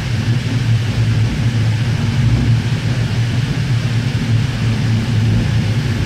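Interior running noise of a Sydney Trains K-set double-deck electric train carriage in motion: a steady low hum with a haze of wheel and rail noise, growing slightly louder.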